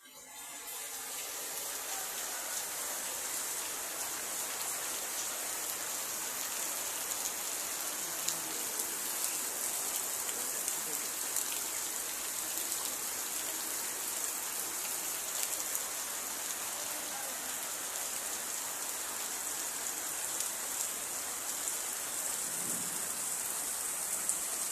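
Steady rain falling: a dense, even hiss with scattered ticks of individual drops. It fades in over the first couple of seconds, then holds steady.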